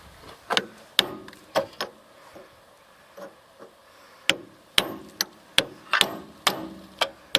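Hammer blows on metal, striking a stuck CV axle joint to knock it apart: a few sharp blows, a pause of about two seconds, then a quicker run of about eight blows. The joint is still holding tight.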